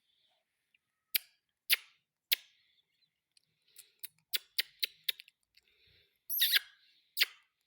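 Female ring-necked parakeet giving a series of short, sharp calls: three spaced apart, then a quick run, with one longer screech about six seconds in.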